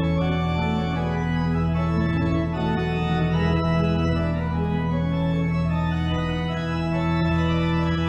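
Organ playing slow sustained chords over held bass notes, a closing voluntary at the end of a church service.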